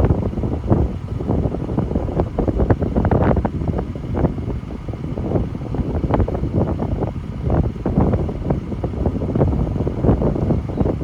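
1969 Ford 6000 grain truck's engine running, with irregular buffeting and clatter over the steady rumble.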